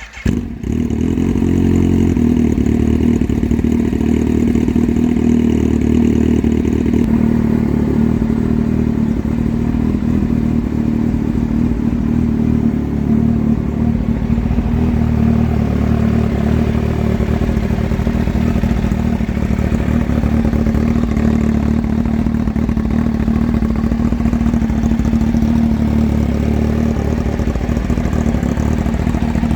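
Kawasaki H2 superbike's supercharged inline-four, breathing through an aftermarket exhaust pipe, catching right at the start and then idling loud and steady.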